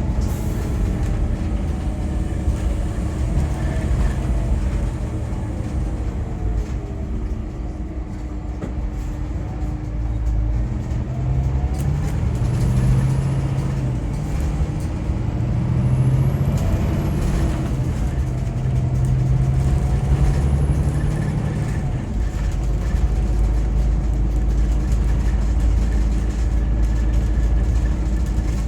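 Scania K410EB6 coach running on the road: a steady low engine drone with road noise. The engine pitch slides down and up a few times as it changes speed and load.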